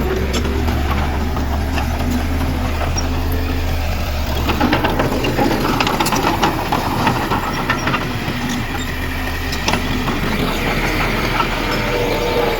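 Heavy diesel earthmoving machinery running with a steady low drone, with rattling and clanking that grows busier from about four to seven seconds in.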